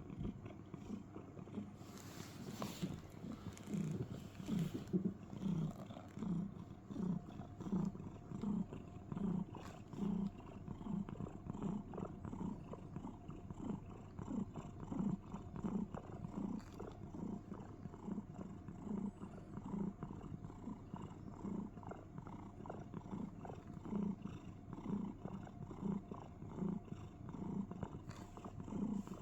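Domestic cat purring steadily, swelling and easing in a regular rhythm with each breath.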